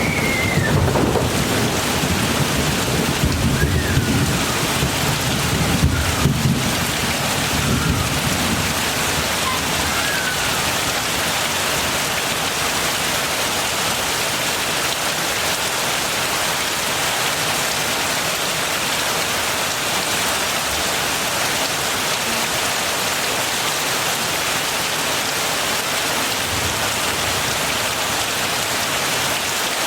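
Heavy rain falling steadily, with a low roll of thunder that rumbles and dies away over the first several seconds, leaving an even hiss of rain.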